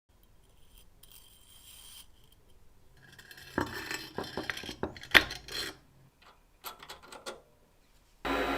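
Metal parts being handled: light scraping and rubbing, then a run of clinks and clicks with one sharp clink about five seconds in. A steady machine hum starts suddenly near the end.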